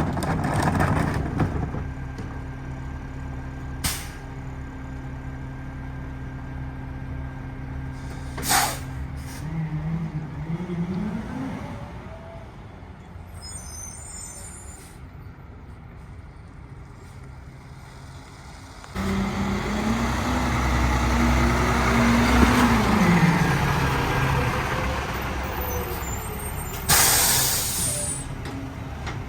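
Peterbilt 520 garbage truck with a Heil DuraPack 5000 rear-loader body: its diesel engine idling, with short air hisses, then revving up, holding high for several seconds and dropping back. A loud air-brake hiss near the end.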